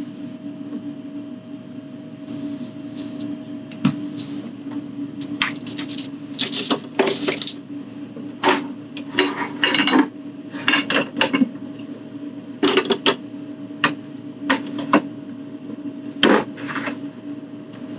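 Fridge contents such as jars, bottles and food containers being handled and set down: an irregular string of clinks, knocks and short rustles over a steady low hum.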